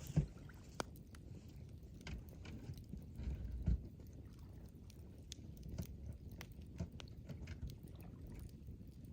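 Wood campfire crackling, with irregular sharp pops and snaps over a low rumble and a few soft low thuds, the loudest a little past the middle.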